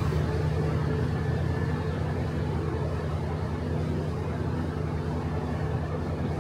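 Steady low mechanical drone of a stationary passenger train idling at the platform, an even hum with a few held low tones and no change.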